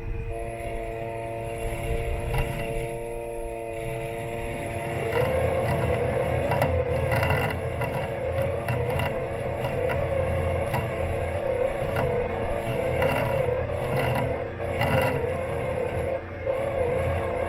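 Robot lawn mower running, heard through the camera taped onto its body: a steady electric motor hum with several held tones that start to waver about five seconds in, with scattered knocks and rattles.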